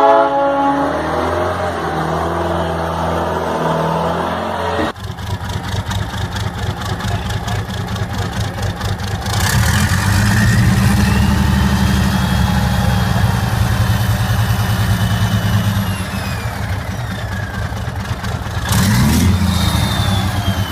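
Motorcycle engine running and being revved. About five seconds in the sound changes abruptly to a lower, pulsing engine note, with a high whine above it that rises and falls.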